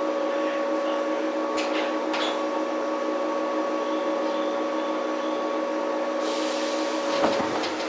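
Inside the motor car of a 115-series electric multiple unit train: a steady hum with several fixed tones from the car's equipment. About six seconds in there is a burst of air hiss, and just after seven seconds a single knock.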